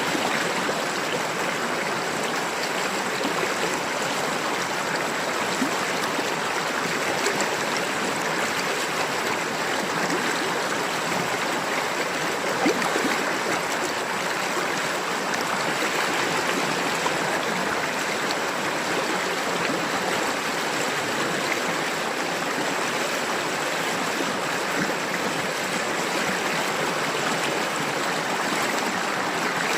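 River water babbling and splashing over rocks, a steady rushing flow.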